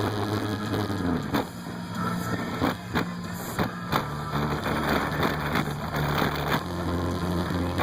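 Music played loud through a truck's bass system: deep sustained bass notes that change pitch every second or so, with irregular sharp crackling hits over them.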